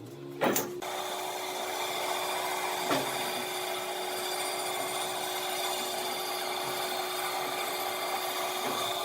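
A power tool working wood starts with a knock and then runs steadily at a constant pitch, with a second small knock about three seconds in.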